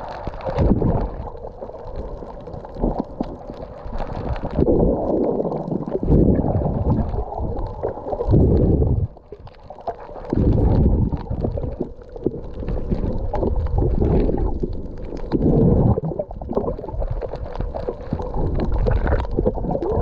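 Muffled water sloshing and gurgling, heard through an underwater camera housing, coming in irregular surges every second or two.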